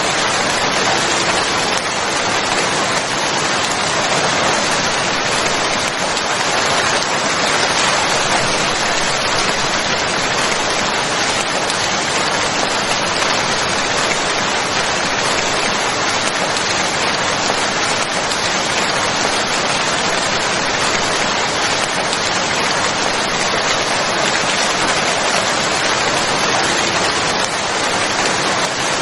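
Steady, even rain falling, a dense continuous patter with no single drops standing out.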